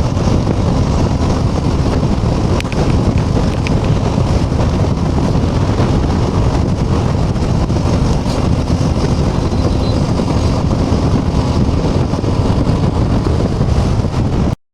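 Steady wind rush and road noise on the microphone of a motorcycle riding at speed, with the bike running underneath. It cuts off abruptly near the end.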